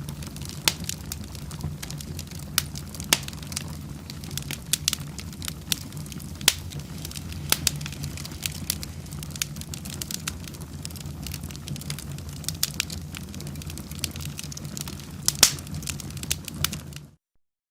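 Fire in a fireplace crackling, with irregular sharp pops over a steady low rumble. The sound cuts off suddenly near the end.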